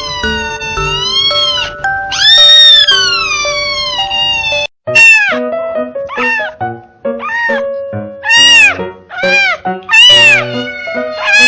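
Cats meowing loudly over background music: two long, drawn-out meows, then, after a brief break, a quick run of shorter meows.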